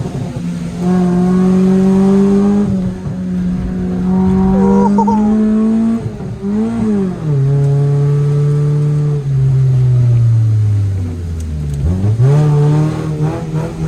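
Car engine being driven hard, its pitch climbing through the gears with a dip at each shift. About halfway through there is a quick rev blip, then the engine winds down with falling pitch before pulling again near the end.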